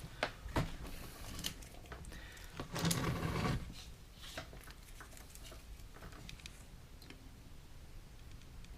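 Small clicks and taps of parts and tools being handled at a workbench, with a brief louder scraping rustle about three seconds in, then a few faint ticks.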